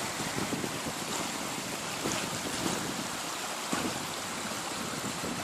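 Mountain river water rushing over rocks, a steady noise with a few faint knocks.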